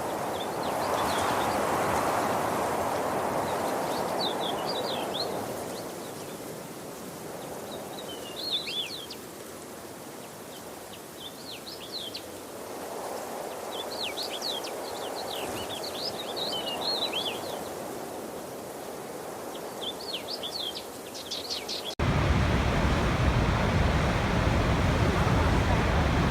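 Rushing water that swells and fades, with small birds chirping in short bursts over it. About 22 seconds in, it cuts abruptly to a louder, deeper, steady rush of water.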